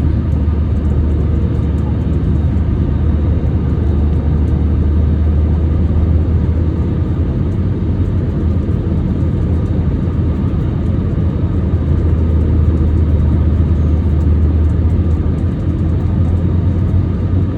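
Steady low rumble inside a jet airliner's cabin, with a faint steady hum above it.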